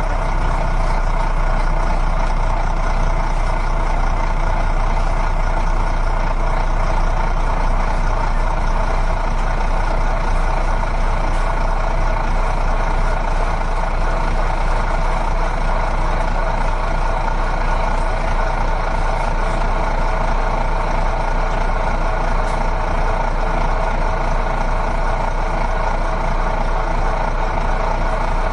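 A vehicle motor running steadily and without change, a continuous hum with a steady whine in the middle range.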